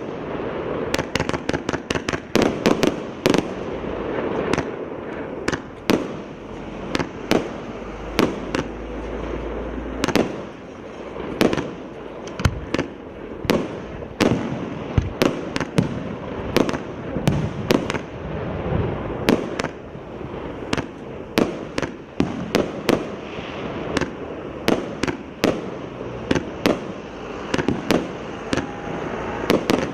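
A 120-shot consumer fireworks cake of 1.2–1.5-inch shells firing, with sharp bangs in quick, irregular succession, often several a second, over a constant noisy background.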